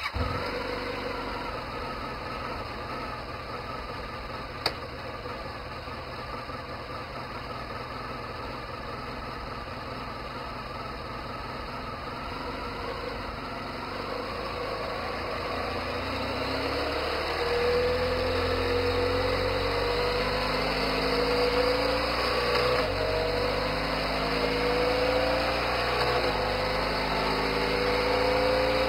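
A Honda motorcycle engine running steadily, with a single sharp click about five seconds in. From about halfway it gets louder, and its revs climb in repeated stretches that each end in a sudden step as the dual-clutch transmission changes gear.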